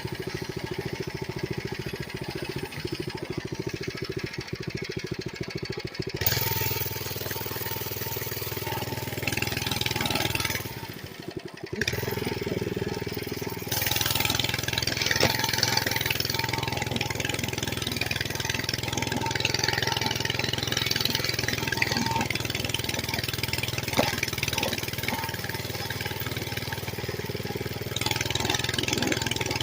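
Mini bike's small engine running, with a fast low pulsing that changes abruptly about six seconds in to a steadier hum under a broad hiss, and shifts again near fourteen seconds.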